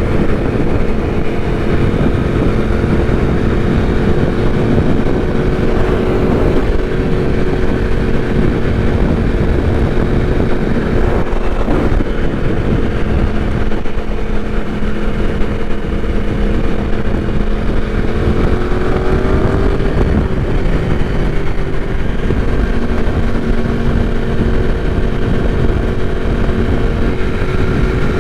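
Yamaha R1 sport bike's inline-four engine running at a steady cruise, with wind rushing over the microphone. The engine note drops a little about two-thirds of the way through and climbs again near the end.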